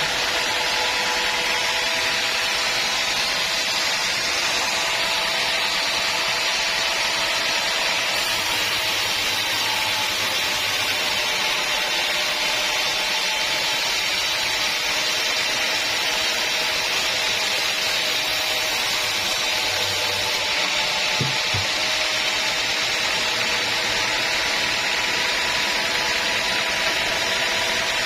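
Sawmill blade running steadily through a teak log, a continuous hissing cut with a steady whine from the mill. Two brief low knocks come about three quarters of the way through.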